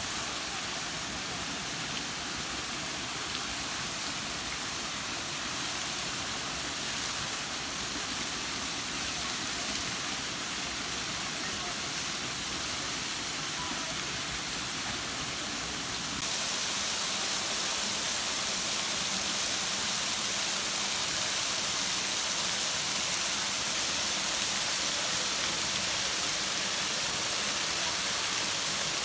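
Waterfall rushing steadily, an even wash of falling water that becomes louder about sixteen seconds in.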